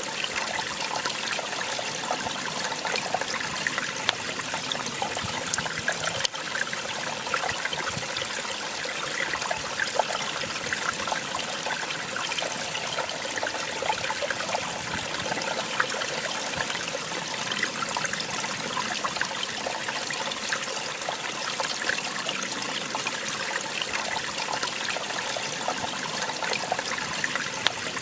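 Small waterfall splashing steadily, with a constant rush of falling water flecked with small splashes and droplets.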